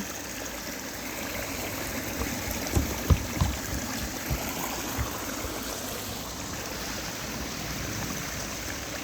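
Stream water running steadily, flowing and trickling, with a few soft thumps about three seconds in.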